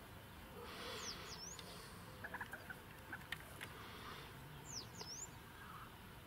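A bird calling twice, about a second in and again near five seconds, each call a quick run of two or three high, sharply falling chirps, over faint outdoor background; a few soft clicks between the calls.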